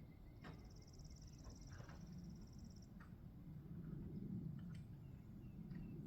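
Quiet outdoor ambience: a steady low rumble, with a high, rapid animal trill lasting about two seconds near the start and a few faint clicks.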